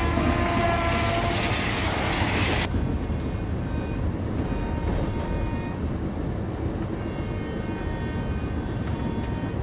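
Steady low running rumble of a moving Rajdhani Express coach, heard from inside a closed air-conditioned cabin. A brighter rushing hiss over it cuts off abruptly about two and a half seconds in.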